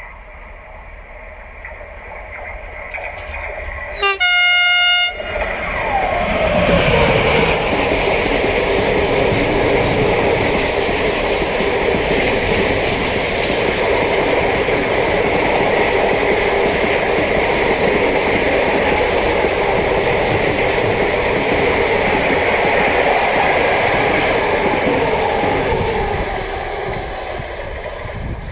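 A freight train passing at speed, with one short horn blast about four seconds in. A whine falls in pitch as the locomotive goes by, then a long run of wagons rumbles and clatters over the rails, fading near the end.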